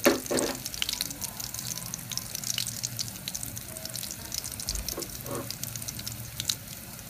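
Fish-paste patty frying in shallow oil in a wok: a steady high sizzle with a constant scatter of small crackles and pops. A sharp knock right at the start is the loudest sound.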